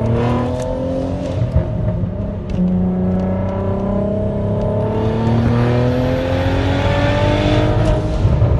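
Big-turbo car accelerating hard in a full-throttle pull. The engine note climbs, drops at a gear change early on, then climbs steadily through the next gear until another shift near the end, with a high turbo whistle rising alongside.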